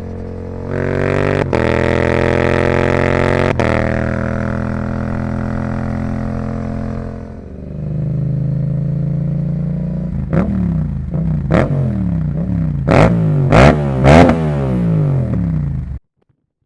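Yamaha YZF-R7's 689 cc parallel-twin engine breathing through a Yoshimura R77 exhaust: running steadily at first, then from about ten seconds in a quick series of sharp throttle blips, the revs rising and dropping back each time. The sound cuts off abruptly near the end.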